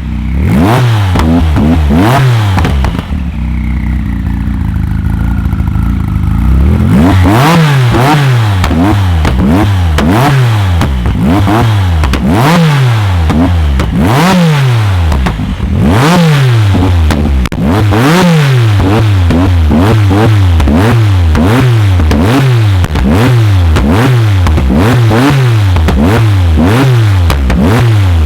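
A tuned performance car's engine revved hard over and over in quick blips, the pitch sweeping up and dropping back about once a second, with sharp exhaust pops and crackles. A few seconds in, it briefly settles to a steadier, lower note while a whistle falls away, then the revving starts again.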